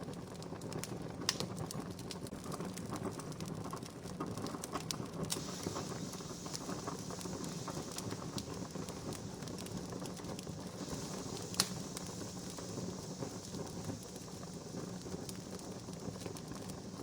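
Wood campfire crackling: a steady soft hiss with scattered small snaps, and two sharper pops, one about a second in and one later on.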